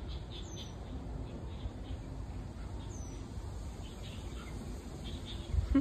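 Small birds chirping faintly and intermittently over a steady low rumble of outdoor background noise, with a louder low noise swelling right at the end.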